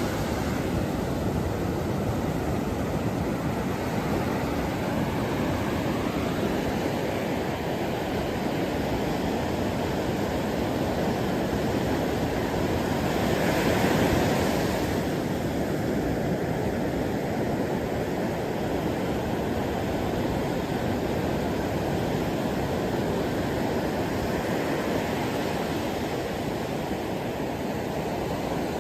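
Surf on a beach: a steady rush of waves, swelling briefly about halfway through as a wave breaks.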